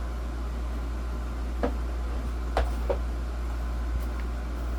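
A few sharp plastic clicks and knocks from a Holmes Blizzard desk fan's plastic parts being worked and pried loose by hand, over a steady low hum.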